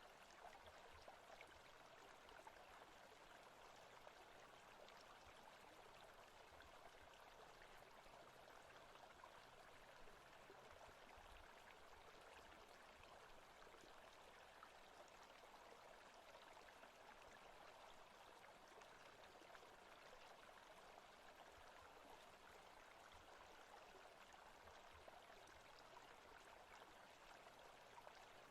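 Faint, steady forest ambience of a flowing stream, an even rush of water.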